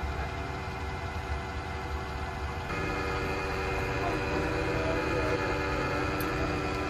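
Electric motor of a machine tool running with a steady, many-toned hum over a low rumble. About three seconds in, the hum grows a little louder and brighter as more tones join it, as when the machine shifts speed or a second motor starts.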